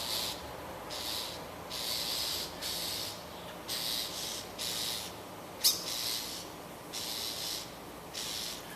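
A black bird screaming: a rapid string of short, harsh, rasping calls, about one or two a second, which the filmer takes for a bird having a fit over a lost egg. A sharp click about two-thirds of the way through.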